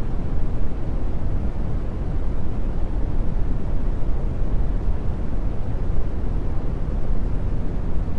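Steady brown noise: an even, deep rushing hiss with no rhythm or change. It carries subliminal affirmations mixed too low to make out.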